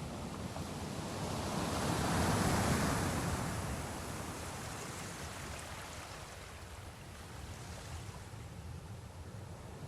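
Sea waves washing: one swell rises to its loudest about two and a half seconds in, then slowly ebbs into a steady wash.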